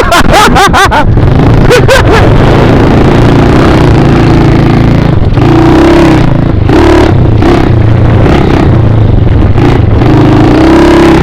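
Small dirt bike engine running under way, its pitch rising and falling with the throttle.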